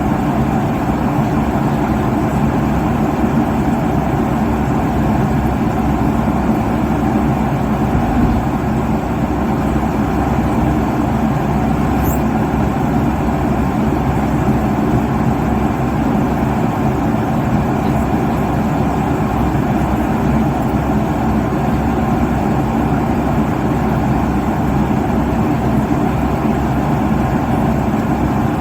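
Steady cabin noise of an airliner at cruise altitude: an even, deep rush of jet engines and airflow over the fuselage, unchanging throughout.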